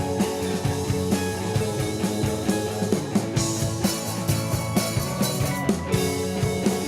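Alternative rock band playing a song: electric guitar over a drum kit keeping a steady beat.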